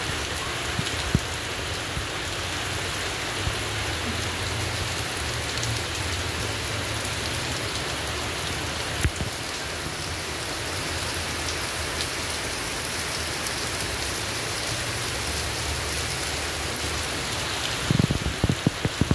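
Heavy rain pouring steadily onto brick paving, leaves and picnic tables, an even hiss throughout. A low rumble sits under it in the middle, and a cluster of low thumps comes near the end.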